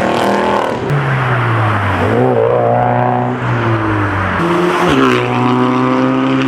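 Race car engine revving, its pitch climbing and dropping several times between held, steadier stretches.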